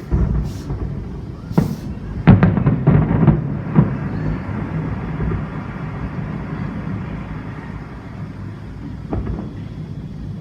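Aerial fireworks bursting: a couple of booms, then a quick run of loud cracks about two to four seconds in, and a single bang near the end, over a constant low rumble of wind on the microphone.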